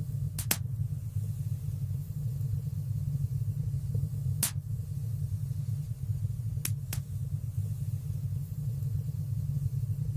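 Wood fire burning in a stone fireplace: a steady low rumble of the flames, broken by sharp crackling pops. Two pops come close together at the start, one comes about midway, and two more come in quick succession a little later.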